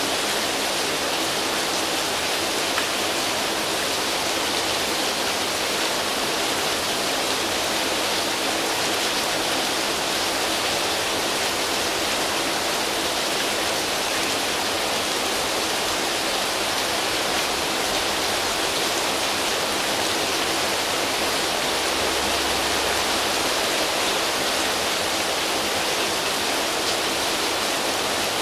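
Steady rain falling on foliage, an even hiss of countless drops with no single drop standing out.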